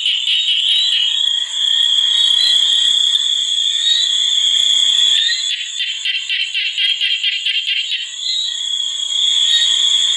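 Steady high-pitched chorus of calling animals, such as frogs and insects, with a run of fast pulsing calls from about five to eight seconds in.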